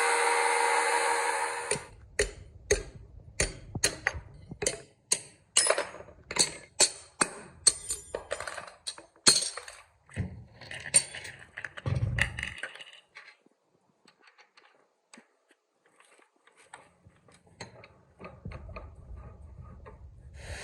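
Hammer blows ringing on metal, about two strikes a second for some eight seconds, in the forging of a blade from an old bearing. These follow a loud steady machine noise that cuts off about two seconds in, and are followed by a few scattered light metal clicks.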